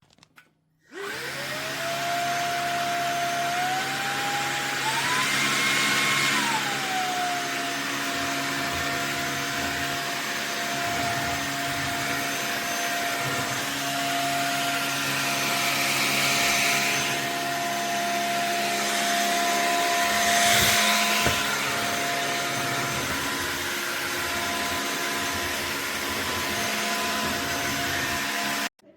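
Cordless stick vacuum motor spinning up with a rising whine about a second in. The pitch steps up twice and drops back around six seconds in, then it runs steadily with a few louder rushes of air, and it cuts off abruptly near the end.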